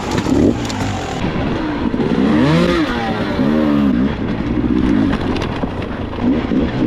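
Dirt bike engine revving, its pitch rising and falling several times as the throttle is worked, over a steady low rumble.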